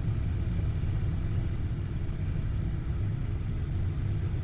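Steady low rumble of a Cessna Citation Excel jet's cockpit on short final approach, just below the 200-foot minimums call.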